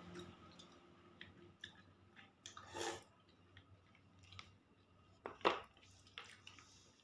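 Someone eating mung bean porridge with black sticky rice: soft chewing and mouth sounds with scattered small clicks, and two louder short noises, about three seconds in and again about five and a half seconds in.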